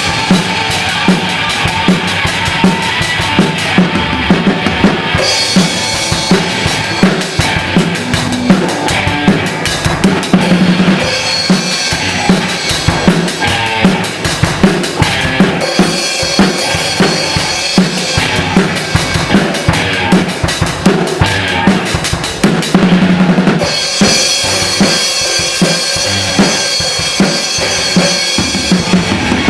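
Music driven by a drum kit, bass drum and snare keeping a steady, busy beat, its texture changing in sections every several seconds.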